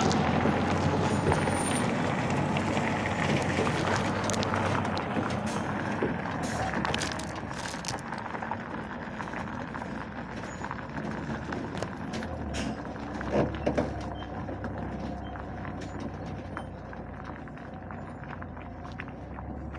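Hino truck running, its sound fading steadily over the stretch, with a couple of brief louder sounds about thirteen seconds in.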